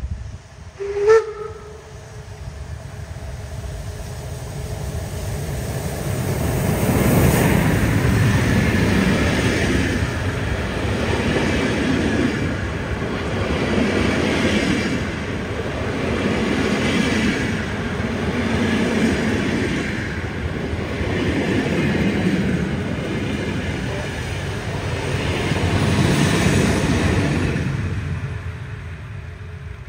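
A train passing at track side: a short toot of the locomotive's warning signal about a second in, then running noise of the wheels on the rails that builds up, swells about every two seconds as the carriages go by, and fades near the end.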